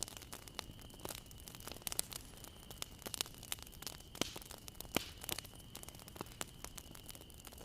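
Wood fire crackling: irregular sharp pops and snaps, several a second, over a low steady hiss, with a faint high steady tone behind.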